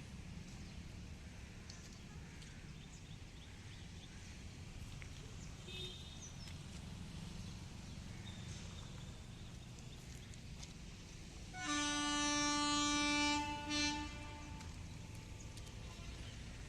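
Indian Railways WAP-7 electric locomotive's air horn sounding one long blast of about two seconds followed by a brief second toot, over a steady low rumble.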